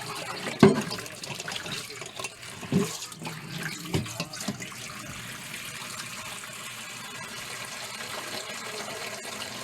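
Water running steadily, with a few knocks and clunks in the first four seconds.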